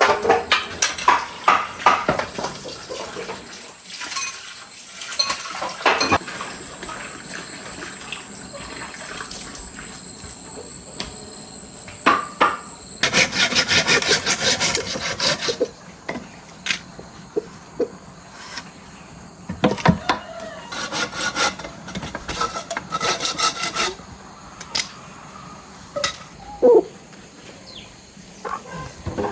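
Hand woodworking on a chair: wood knocked and scraped, with bursts of rapid sawing strokes about halfway through and again later.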